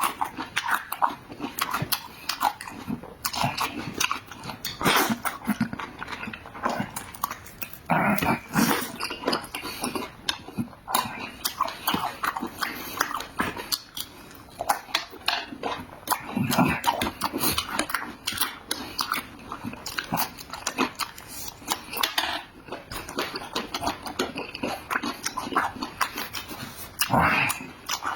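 Close-up eating sounds of a person chewing and smacking food with the mouth open, a dense run of wet clicks and short smacks.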